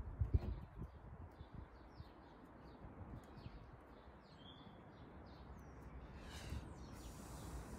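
Birds chirping with short repeated calls, with a few low knocks in the first second.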